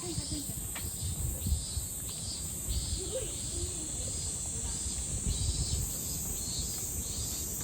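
Summer insects calling: a steady high-pitched drone with a rhythmic chirping over it, about two pulses a second.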